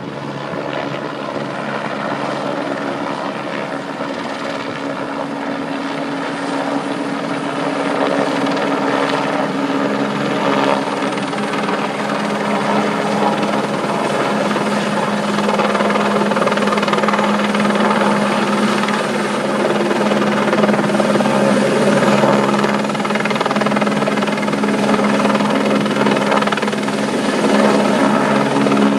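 Helicopter running with a steady droning hum, growing gradually louder.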